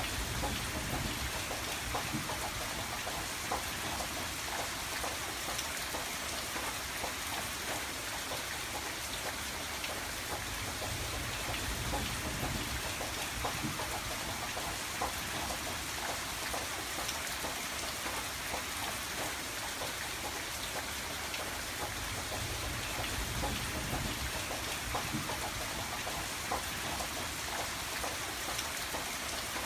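Steady rain on a window pane: an even hiss dense with small drop ticks, with a low rumble that swells and fades a few times underneath.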